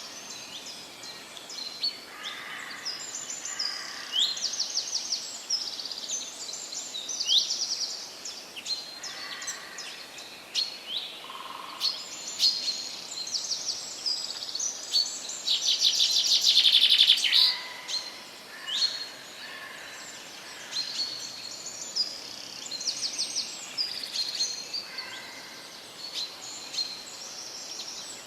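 Forest birdsong: several birds singing and calling with many short, high notes and sweeps, and a few lower calls, over a faint steady hiss. A loud rapid trill stands out a little past halfway.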